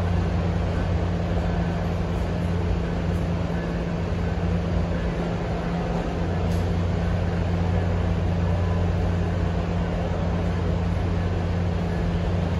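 Steady low drone of an NJ Transit train standing at the platform, with a constant low two-tone hum that neither rises nor falls.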